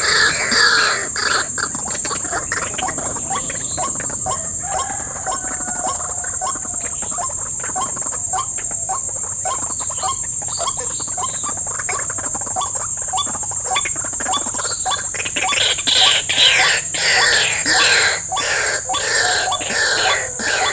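White-breasted waterhens (ruak-ruak) calling in quick repeated strokes, loudest near the start and again over the last few seconds, over a steady high drone of insects.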